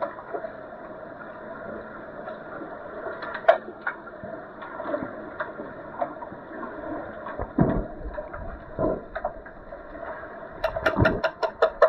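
Pool water noise from an underwater hockey game, with a steady hum and a few scattered knocks and swells. Near the end a rapid, even pulsed beeping of about six beats a second starts and keeps going.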